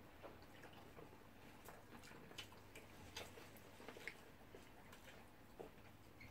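Near silence with a few faint, scattered clicks: quiet chewing and mouth sounds of people eating fried plantain and egg.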